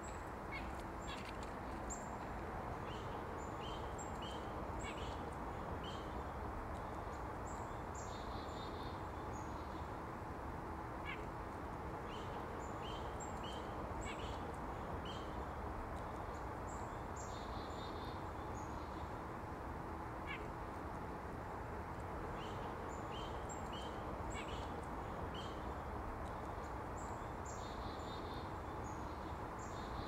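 White-breasted nuthatch and other small forest birds calling: many short high chips throughout, and three bursts of quick nasal notes about ten seconds apart, over a steady low background hiss.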